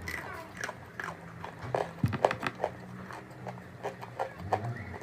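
Chalk being bitten and chewed: a run of irregular, crisp crunches and crackles, the sharpest a little after two seconds in.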